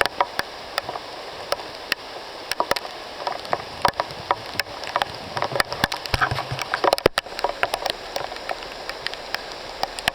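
Rain in a tropical rainforest: a steady hiss with many irregular, sharp drips striking leaves close by.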